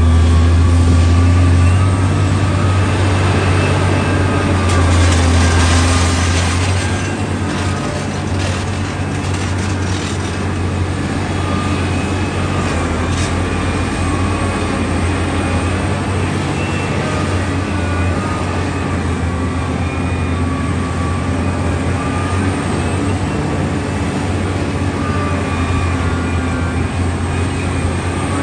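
Diesel engine of heavy earth-moving machinery running with a steady low hum, louder for the first two seconds and again about five seconds in, where a brief rush of rattling noise is added.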